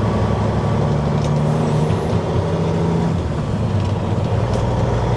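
Dump truck's diesel engine running as the truck pulls away, heard from inside the cab, with its note shifting about three seconds in.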